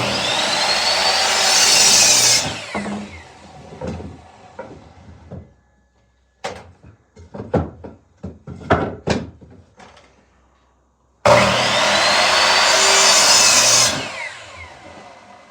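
Circular saw cutting through a 2x4 twice, each cut lasting about two and a half seconds before the blade spins down. Between the cuts there is a run of knocks from lumber being handled.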